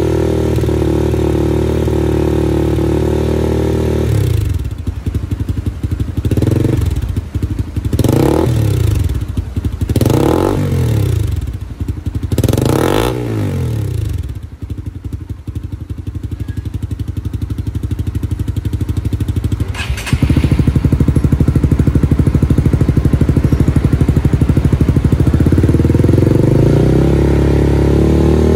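Honda CB150R single-cylinder engine through an aftermarket full hexagonal exhaust system. It holds a steady rev, drops to idle, then gets four quick throttle blips, each climbing higher than the last, before settling back to idle. About 20 seconds in the idle abruptly gets louder, and the revs start to rise again near the end.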